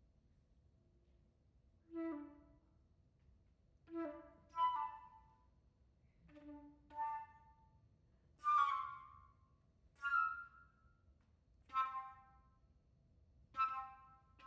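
Solo flute playing a sparse series of short, separate notes, about one every one to two seconds, with silence between them. Some notes carry audible breath noise.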